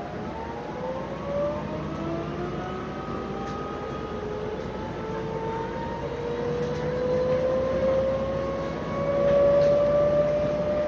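Heuliez GX 427 hybrid city bus pulling away, heard from on board: its electric drive gives a whine of several tones that climb slowly together as the bus gathers speed, over the rumble of the ride. The whine grows louder near the end.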